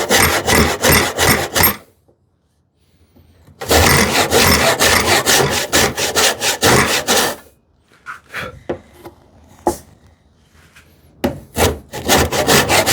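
Hand saw cutting stop cuts into wood, in quick, even back-and-forth strokes. The sawing stops about two seconds in, starts again about two seconds later, thins to a few quieter scattered strokes past the middle, and picks up fast again near the end.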